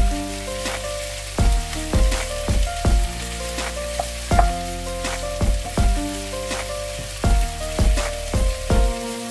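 Chicken thighs and onions sizzling in a frying pan as a wooden spoon stirs them, a steady hiss of frying. Background music with held notes and a regular bass beat plays over it.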